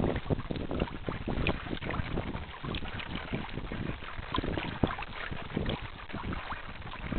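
Wind rushing and buffeting on the microphone of a camera mounted aboard a radio-controlled model sailing yacht, with irregular splashes of water against the small hull.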